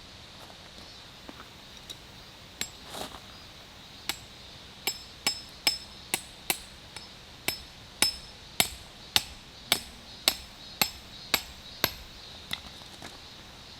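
Hammer blows on metal, each with a short bright ring. A few come scattered at first, then a steady run of about two strikes a second.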